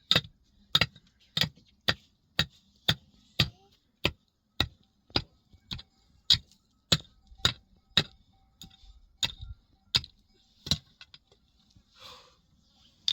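A steady run of sharp blows from a hand tool, about two a second, that stops shortly before the end.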